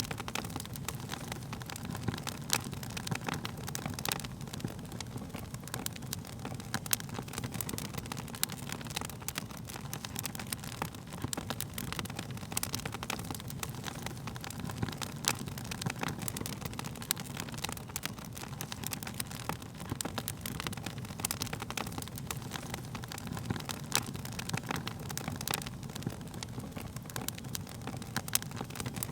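Wood fire burning: a steady low rumble of flames with frequent irregular crackles and sharp pops of burning wood.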